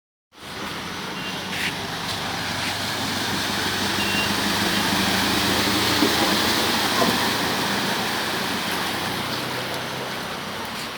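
Heavy rain falling, with a motor vehicle running on the wet road over it: the hiss swells to its loudest about halfway through and eases off again, over a steady low engine hum.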